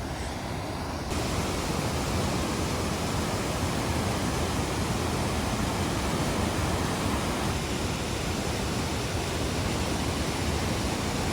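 Steady rushing noise with no distinct events, a little louder from about a second in.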